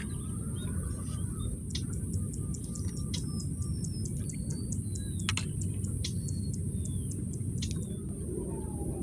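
Small birds chirping: short high whistling calls and a run of quick high ticks, about three a second, through the middle, over a steady low rumble of outdoor background noise.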